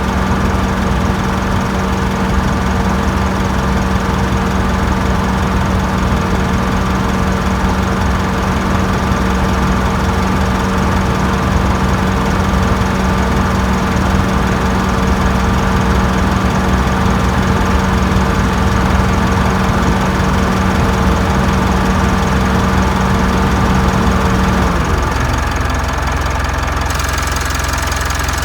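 Mitsubishi Delica D5's diesel engine idling steadily with a knocking clatter. A steady hum underneath stops about 25 seconds in, and the engine's tone shifts slightly after that.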